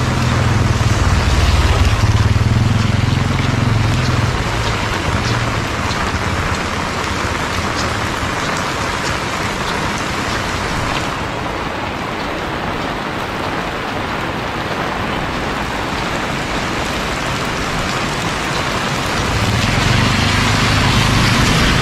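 Heavy rain falling steadily. A low rumble rises over it in the first few seconds and again near the end.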